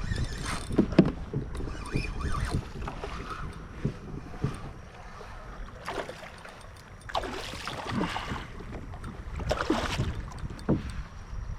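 Handling noises on a fishing kayak: scattered knocks and bumps, with several short rushing bursts in the second half, over a low wind rumble on the microphone.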